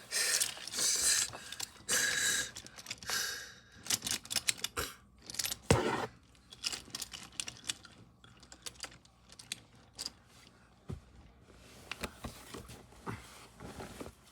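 Small hard objects being handled: irregular clicks and clatter with rustling, busiest in the first half and sparser later, with one louder knock about six seconds in.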